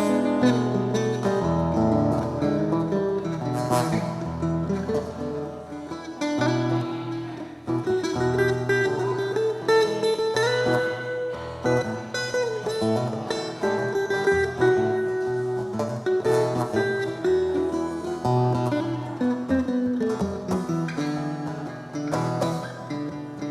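Instrumental guitar music: plucked guitar playing a busy melodic line over held low bass notes.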